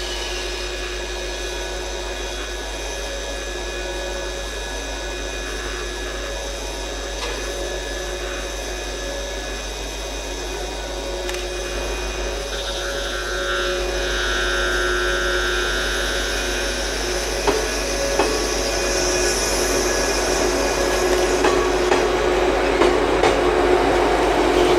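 485 series electric train standing at the platform with a steady hum from its onboard equipment. Over the second half it grows louder, with scattered clicks, as it starts to pull away, and a motor tone begins to rise in pitch near the end.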